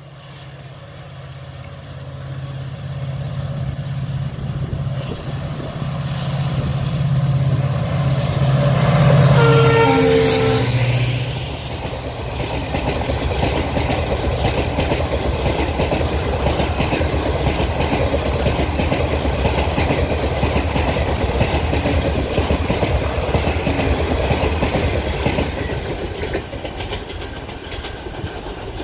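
Express train at speed behind a WDP4D diesel-electric locomotive with its EMD two-stroke diesel. The locomotive's steady low engine drone grows louder as it approaches and drops in pitch as it passes, about ten seconds in. After that the coaches' wheels clatter rhythmically on the track, easing off near the end.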